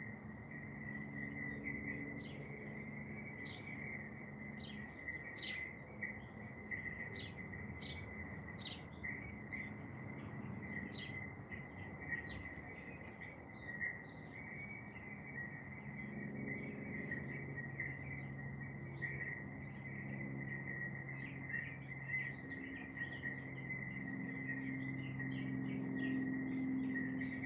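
Garden birds chirping and singing in quick, overlapping short notes over a continuous high, insect-like trill. Low sustained tones hum underneath and shift in pitch a few times.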